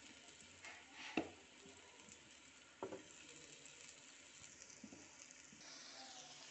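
Flour-coated baby potatoes frying in a little oil in a nonstick pan: a faint, steady sizzle with two light knocks in the first three seconds. The sizzle grows a little stronger near the end.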